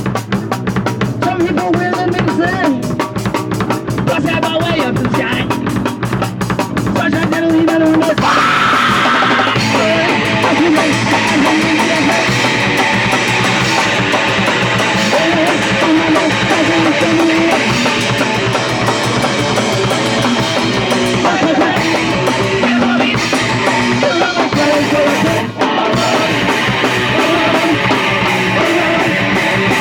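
Punk rock band playing live: fast drum kit and distorted electric guitar. The sound fills out about eight seconds in, with a brief break a few seconds before the end.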